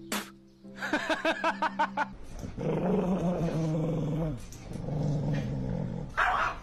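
A dog growling in two long low stretches, after a quick run of short sounds.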